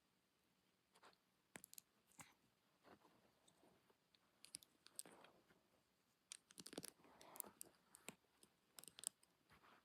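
Faint plastic Lego pieces clicking and rattling as they are handled and pressed together, in irregular sharp clicks with short rustling bursts, busiest in the second half.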